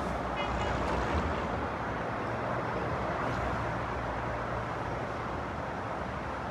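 Steady rushing roar of a NextGen Acela high-speed trainset running past, with wheel and wind noise at an even level.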